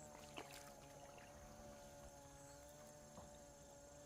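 A faint, steady, pitched motor drone that holds one pitch and cuts off shortly after the end, with a thin high whine and a few light clicks.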